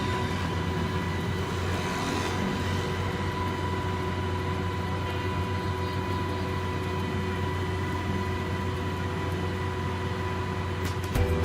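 Heavy diesel truck engine running steadily at an even speed: a low hum with a constant high whine over it.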